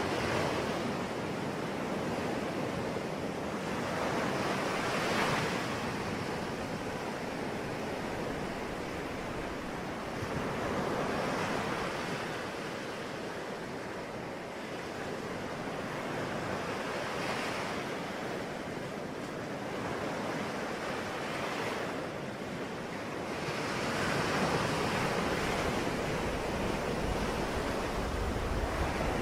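Sea waves washing in, a steady rush of surf that swells and fades about every five to six seconds.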